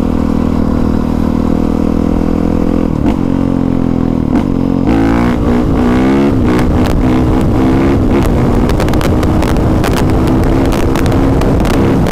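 Honda CRF450R's single-cylinder four-stroke engine running while being ridden, its pitch steady at first and then rising and falling several times from about three to six seconds in as the throttle is worked. Scattered knocks and rattles run through the second half.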